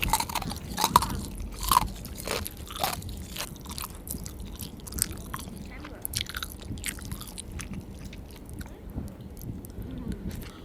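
People biting and chewing McDonald's food (nuggets, fries and apple pie) close to the microphone, with many short, irregular clicks of the mouth and food. The clicks come thickest in the first few seconds.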